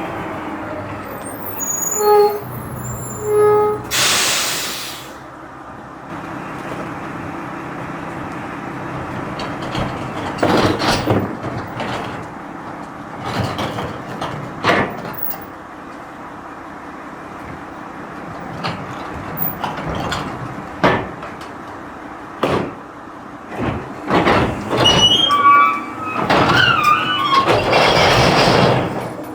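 Garbage truck running, with a loud hiss of released air about four seconds in and again near the end, brief squeals, and scattered knocks and clanks.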